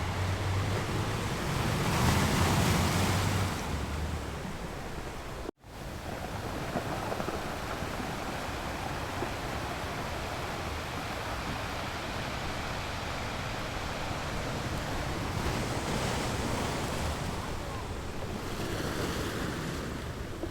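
Ocean surf: a steady wash of breaking waves, with one louder wave surging about two seconds in and gentler swells later. The sound cuts out for an instant about five and a half seconds in, then resumes.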